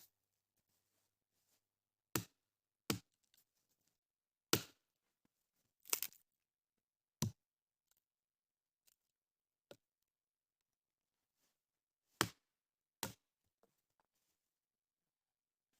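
Firewood being prepared by hand: about eight sharp wooden cracks at irregular intervals, with silence between.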